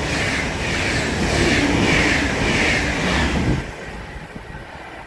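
Train passing close by at speed, its wheels clattering in a regular rhythm over the rails, until the end of the train goes by about three and a half seconds in and the sound drops away sharply.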